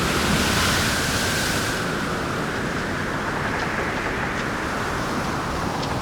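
Helicopter running close by: a loud, steady rush of turbine and rotor noise with a constant whine in the middle of the range, and rotor downwash blowing on the microphone.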